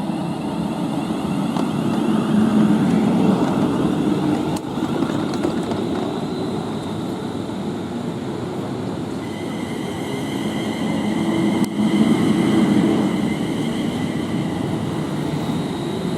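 Class 350 electric multiple unit pulling away, a steady rumble of wheels and running gear that swells twice. A steady high whine joins about ten seconds in.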